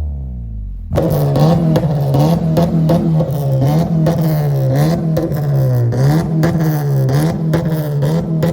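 A modified car engine with a loud exhaust is revved. The revs fall for the first second, then jump suddenly and are held high, with the pitch wobbling up and down over and over and many sharp crackles throughout.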